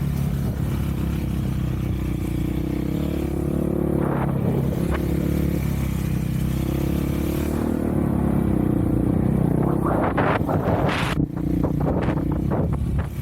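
Single-cylinder off-road engine of an ATV or dirt bike running steadily while riding, with brief noisy bursts about four seconds in and again for the last few seconds.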